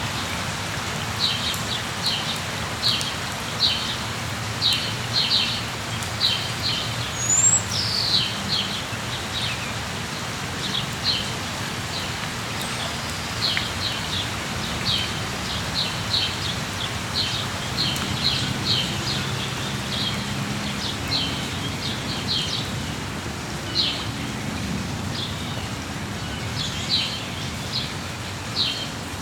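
Steady rain falling, with small birds chirping over it in short, high chirps that come one after another throughout.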